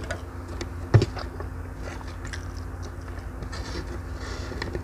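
Close-miked chewing and wet mouth clicks from eating rice and fried instant noodles, with a sharper click about a second in, over a steady low hum.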